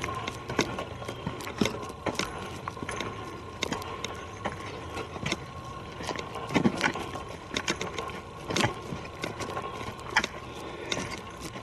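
Footsteps of people walking on a forest trail, irregular knocks about once a second, with a faint steady hum underneath.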